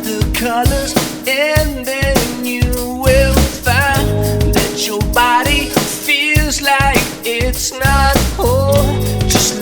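Psychedelic rock song: drum kit keeping a steady beat under bass, guitar and a melodic lead line that bends in pitch.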